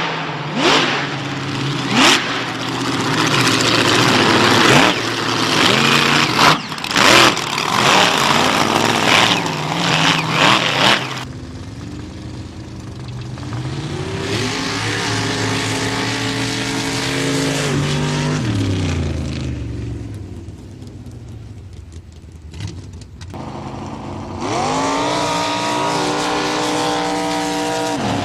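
Monster truck engines running hard, very loud and harsh for the first ten seconds or so. The engines then rev up and fall away, go quieter for a few seconds, and climb again near the end.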